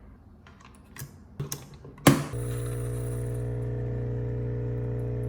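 A few mechanical clicks and a sharp clack about two seconds in, then the SCISHARE capsule coffee machine's vibratory pump starts with a loud, steady buzzing hum as it pushes water through the capsule.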